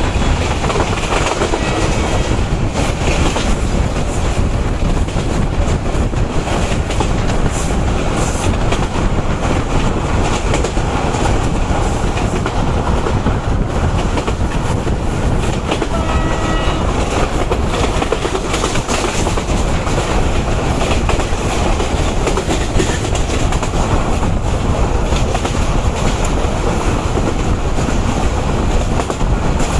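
Mohanagar Express passenger train running at speed, heard beside an open coach door: a steady rumble and rush of wind with the wheels clacking over the rail joints. A short horn note sounds about halfway through.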